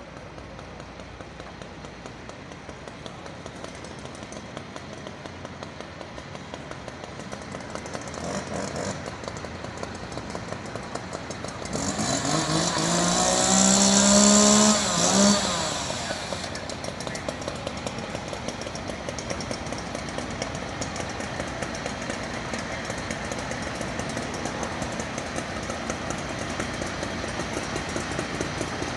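A motor vehicle passes close by, its engine climbing in pitch as it speeds up, then dropping away, with a strong hiss over it. A steadier engine and traffic sound lies under it.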